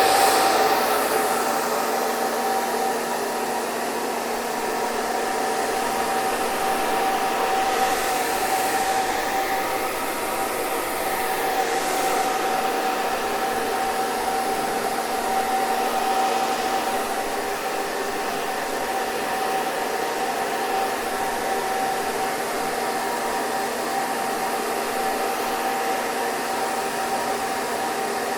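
Hair dryer running continuously, a steady rush of air with a constant motor whine.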